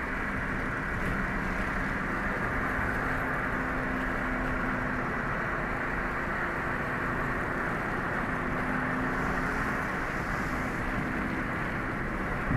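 Motor vehicle travelling steadily: a constant engine hum under steady road and wind noise.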